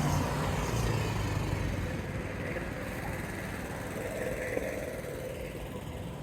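A motor vehicle's engine running, growing gradually fainter.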